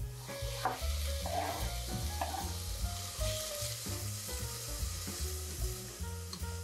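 Chopped celery frying in olive oil in a stainless steel pot: a steady sizzle, with a spatula stirring and scraping against the pot in the first couple of seconds. Background music plays underneath.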